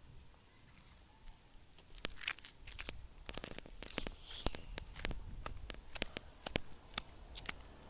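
Irregular crinkling and crackling clicks, starting about two seconds in and going on in quick, uneven bursts for several seconds, like a wrapper or dry material being handled or torn.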